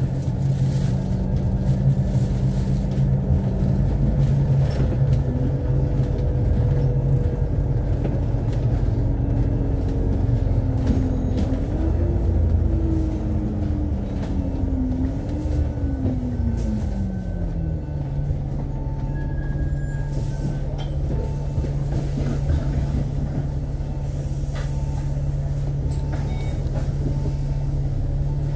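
Alexander Dennis Enviro500 MMC double-decker bus heard from on board, the engine and drivetrain running under way. Its pitch rises and falls several times as the bus speeds up and slows between about four and seventeen seconds in, then settles into a steady hum.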